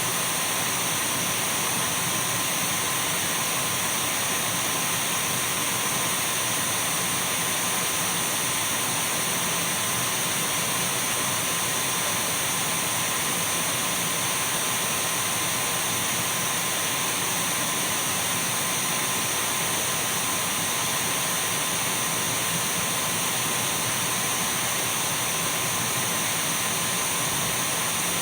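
Dyson V12 cordless stick vacuum running steadily: an even rush of air with two thin, unchanging whines, one high and one lower.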